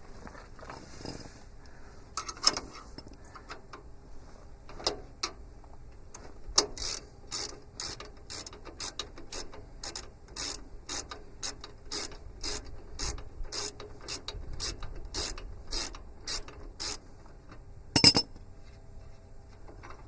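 Ratchet wrench clicking in a steady run of about three clicks a second as a sub-frame bolt is worked loose, with a few scattered clicks before it. One sharp metal clank comes near the end.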